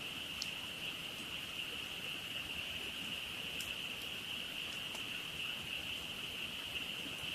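Dense chorus of frogs calling together as one steady high-pitched trill, with a campfire giving a few sharp crackles and pops.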